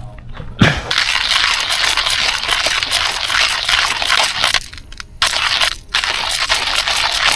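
Coffee grinder crunching and crushing coffee beans, a dense gritty grinding that starts just under a second in and breaks off briefly twice near the end.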